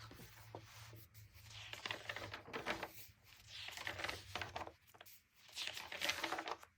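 Faint rustling and crinkling of paper, coming in three bursts, typical of a book's pages being handled and turned, over a low steady hum.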